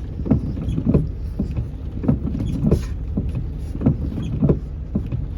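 Wind buffeting the microphone: a constant low rumble broken by uneven thumps of gusts, a few each second.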